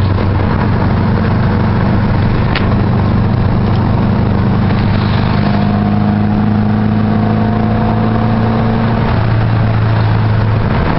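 Subaru EJ22 flat-four engine in a VW Super Beetle running under way, a steady engine drone with road noise. About five seconds in, a higher note joins and climbs slowly for a few seconds as the engine picks up speed.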